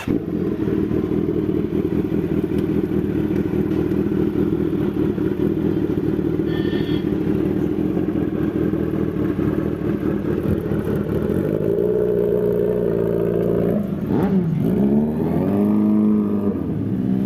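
Motorcycle engine running steadily under way, its pitch shifting up and down near the end, with a sharp dip and rise in between, as the throttle changes.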